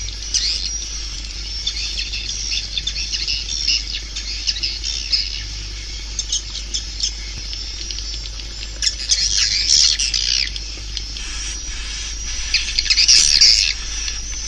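A dense chorus of edible-nest swiftlet chirping and twittering: the kind of swiftlet call recording played through tweeters to lure swiftlets into a nesting house. The chirps run on without a break, with louder flurries about nine seconds in and near the end.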